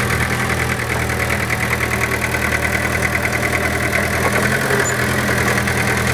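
Vehicle engine running steadily: an even low hum with a fast, regular pulsing above it.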